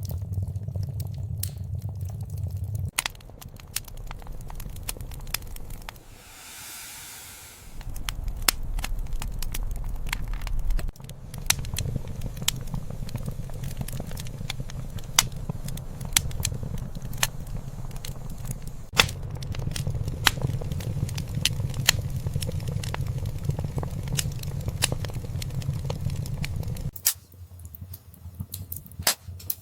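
Wood fire in a fireplace crackling, with many sharp pops and snaps over a low rumble of burning. The rumble drops out abruptly a few times, and a soft hiss rises briefly about six seconds in.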